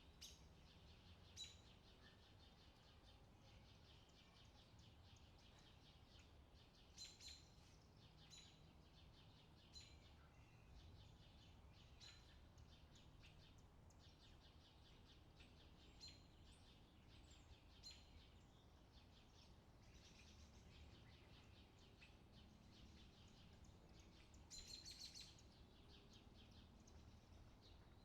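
Faint birdsong: short chirps and calls every few seconds, with a denser run of chirping about 25 seconds in, over a low, steady background rumble.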